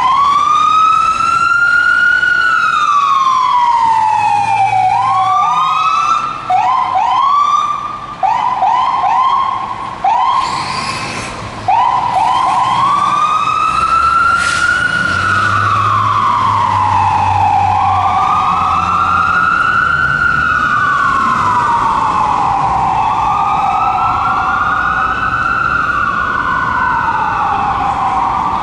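Fire engine's Whelen 295 electronic siren, loud. It starts on a slow rising-and-falling wail, switches to a run of short, quick rising yelps for several seconds in the first half, then goes back to the slow wail.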